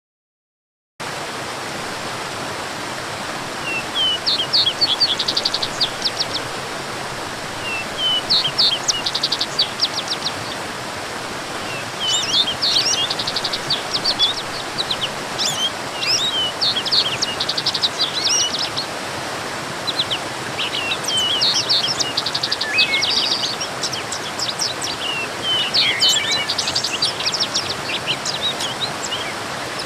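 Steady rushing of a waterfall, with small songbirds singing quick trilled phrases over it every few seconds. It starts suddenly about a second in.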